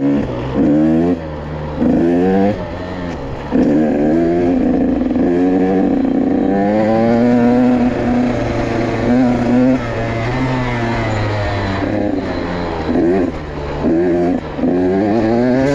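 Motorcycle engine revving up and down while being ridden: its pitch climbs, then drops every second or two as the gears are changed, here without using the clutch.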